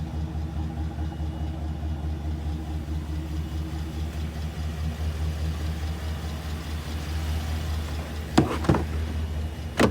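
A 2018 Chevrolet 2500HD pickup's engine idling steadily. Two sharp knocks come near the end.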